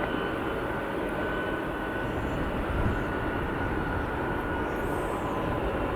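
Jet airliner's engines running steadily on approach: an even rumble with a faint high whine held at one pitch.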